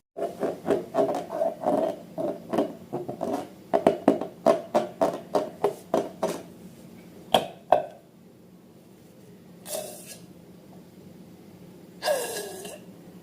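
Slime being squeezed and worked, making a fast run of short squelching pops about three a second. A couple of sharper pops follow, and near the end there is a short squelch with a falling squeak.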